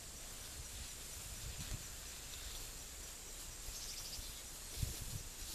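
Quiet outdoor ambience of insects chirring steadily, with a brief trill about four seconds in. A few soft low thumps come around the middle and near the end.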